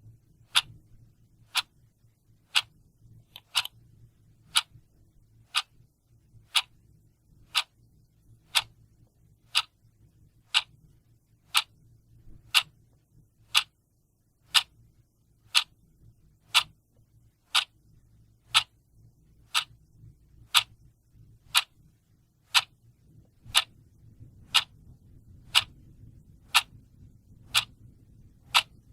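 Mechanical clock ticking steadily, about one tick a second.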